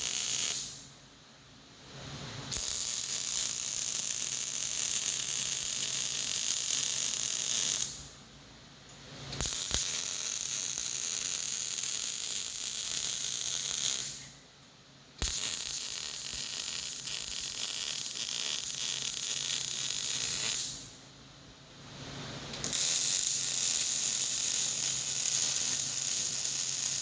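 MIG welder running a short-circuit (short arc) arc with .045 wire: a steady, loud crackling buzz. The arc is broken off four times for a second or two each and struck again.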